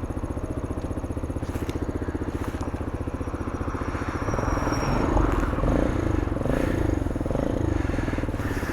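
MGB ATX 125cc adventure motorcycle engine running under way with a fast, even firing beat; about halfway through the throttle opens and the engine gets louder, its pitch wavering for a few seconds before settling back.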